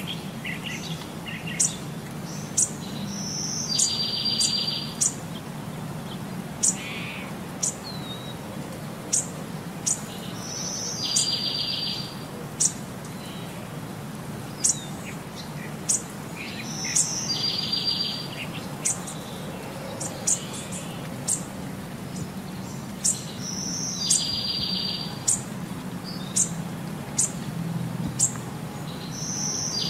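Birds chirping: short high chirps every second or so, and a longer buzzy call that comes back about every seven seconds. The same pattern repeats as a loop.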